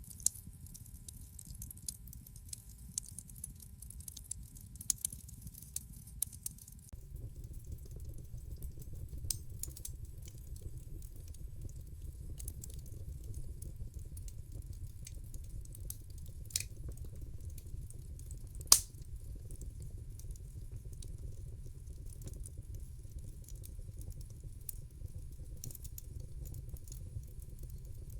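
Wood fire in a fireplace crackling, with sharp pops and snaps scattered over a low, steady rumble of flames. The rumble grows louder about a quarter of the way in, and one pop stands out loudest about two-thirds through.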